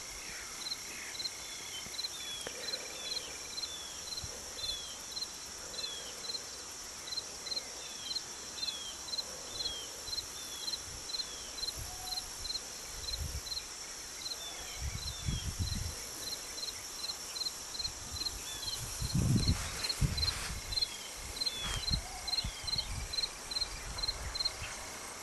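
Outdoor insect chorus: a steady high buzz, with a short high chirp repeating about twice a second. Scattered low thumps and rustles come in during the second half.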